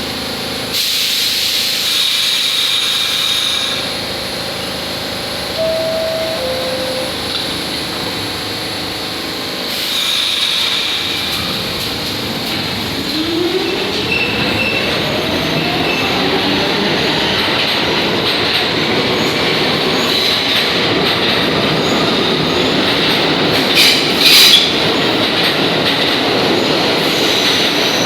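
R46 subway train in a station: a two-note descending chime, then the train pulls out with a rising motor whine and wheel clatter, and two short, loud wheel squeals near the end.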